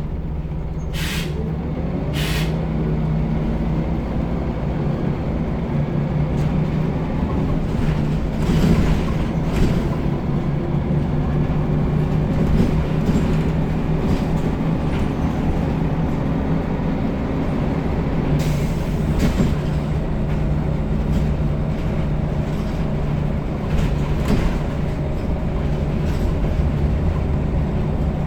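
Scania L94UB single-decker bus's diesel engine running under load, heard on board, its pitch rising as the bus accelerates over the first several seconds. There are two short hisses near the start and another about eighteen seconds in.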